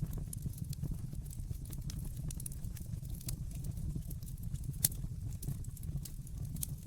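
Wood fire burning in a fireplace: a steady low rumble with irregular crackles and snaps, and one louder pop near the five-second mark.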